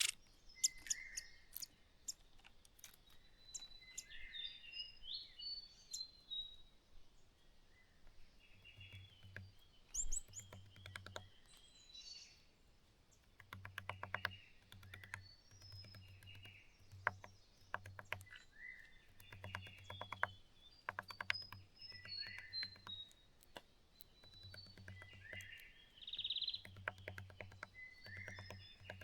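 Small birds chirping with short high calls, and repeated runs of rapid tapping clicks lasting a second or two each, as a bird's bill tamps clay into its nest.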